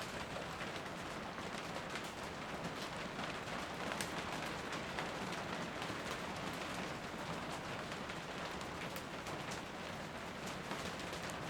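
Steady rain falling, an even hiss with many scattered ticks of single drops striking.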